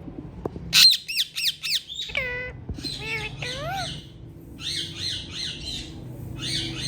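Ringneck parrots squawking: a quick run of about five loud, shrill calls about a second in, then further groups of pitched calls that rise and fall.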